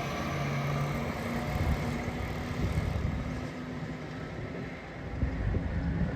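Motor vehicle engine and road noise, a steady low rumble that swells briefly near the end.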